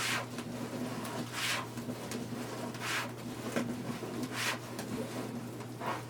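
Deco mesh and burlap ribbon rustling as they are gathered into ruffles, in short swishes about every second and a half over a steady low hum.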